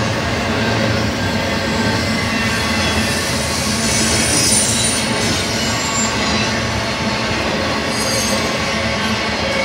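Double-stack intermodal freight cars of a passing BNSF train rolling by steadily: a continuous rumble of wheels on rail, overlaid by thin, high wheel squeals that grow louder about four seconds in and again near the end.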